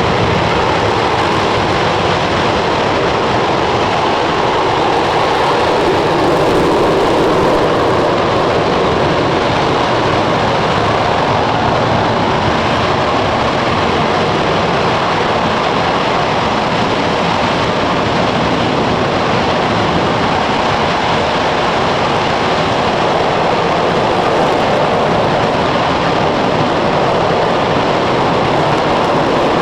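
RS-25 rocket engine, a former Space Shuttle main engine burning liquid hydrogen and liquid oxygen, firing steadily: a continuous loud rushing roar with no break or change in level.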